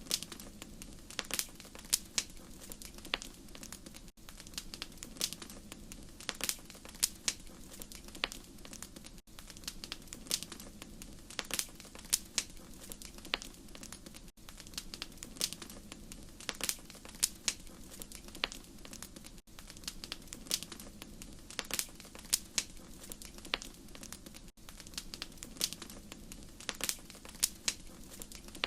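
Wood fire crackling, with frequent irregular sharp pops and snaps over a steady low rumble. There is a brief gap in the sound about every five seconds.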